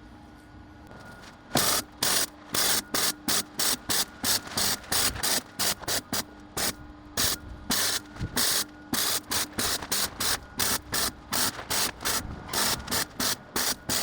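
Welding in short repeated bursts of hiss, about two to three a second, starting about a second and a half in: a run of stitch or tack welds being laid on the steel tube front end.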